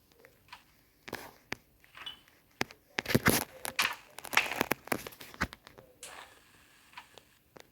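Small objects handled and moved about: scattered clicks and rustles, busiest about three to five seconds in.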